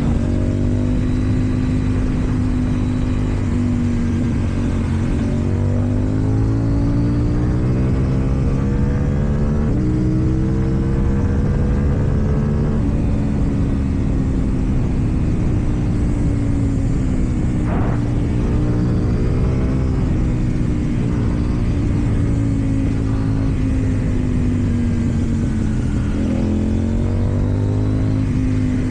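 KTM Duke 790's parallel-twin engine through an Akrapovic exhaust, its revs rising and easing off again and again as the bike accelerates and slows. A brief sharp sound cuts in about eighteen seconds in.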